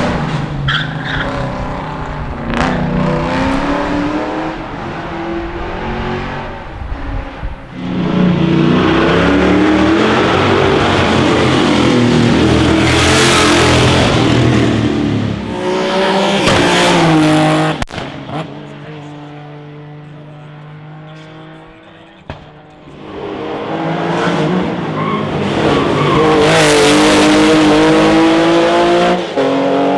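Classic racing car engines revving hard and climbing through the gears one after another, each rise in pitch broken by a drop at the shift. There is a sudden cut in the middle and a quieter spell before the next car comes up loud.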